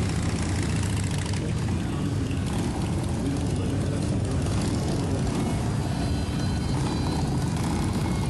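Motorcycle engines running steadily at road speed, with a constant rush of wind noise over them.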